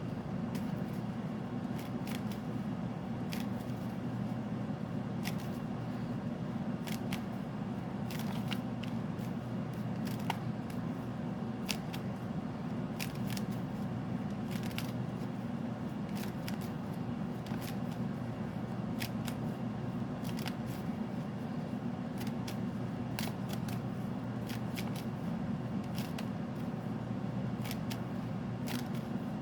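Tarot cards being shuffled by hand, giving irregular light clicks and snaps every second or so, over a steady low hum.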